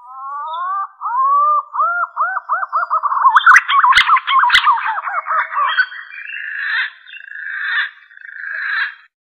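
Green pigeon (punai) song played as a hunting lure call: a series of whistled notes that glide up and down, quickening into rapid arched notes about three seconds in, then turning into a buzzier warble. Two sharp clicks come around the middle.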